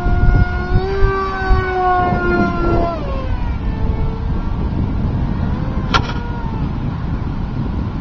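Brushless electric motor and propeller of a foam RC jet whining in flight, the pitch rising slightly about a second in, then falling away about three seconds in as the plane passes. Wind rumble on the microphone, and a sharp click about six seconds in.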